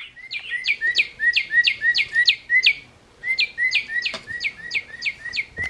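A Wild Republic plush cardinal's sound chip playing a recorded northern cardinal song. The song comes in two runs of repeated down-slurred whistles, about three or four a second, with a short pause in the middle.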